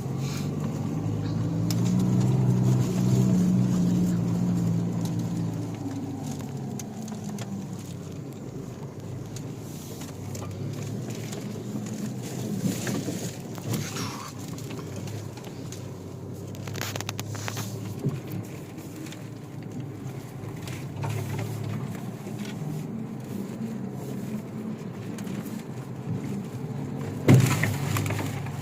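Chevrolet Niva's engine running as the car drives, louder in the first few seconds and then easing off, with scattered knocks and one loud thump near the end.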